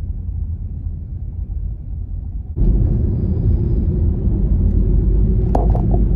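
Road and engine rumble of a Honda Freed heard from inside the moving car. About two and a half seconds in it jumps suddenly to a louder, rougher rumble. Two brief clicks come near the end.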